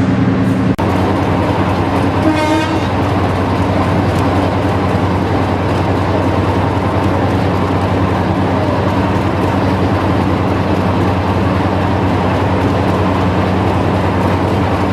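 Diesel locomotive engine running steadily with a heavy low rumble, under a harsh noisy recording. There is a sharp click just under a second in, and a short wavering toot a little after two seconds.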